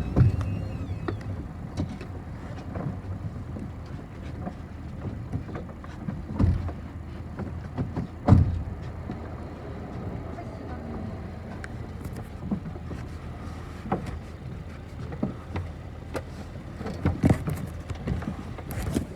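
City bus running, heard from inside the cabin: a steady low rumble with several knocks and thumps, the loudest about eight seconds in.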